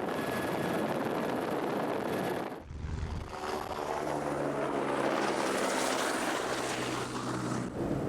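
Helicopter in flight: steady rotor and engine noise. About two and a half seconds in the sound briefly drops away, then returns with a steady low hum under the noise.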